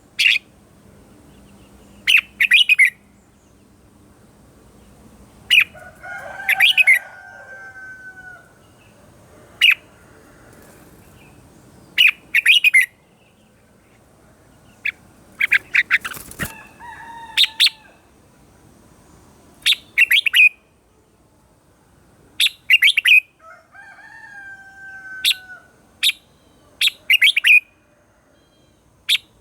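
Red-whiskered bulbul singing: short, bright chirped phrases repeated every two to three seconds, with a few lower sliding whistled notes between them.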